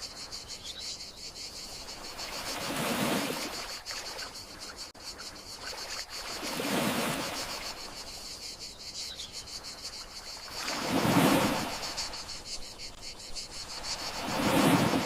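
Gentle sea waves breaking and washing ashore, swelling and fading about every four seconds, over crickets chirping in a steady fast pulse.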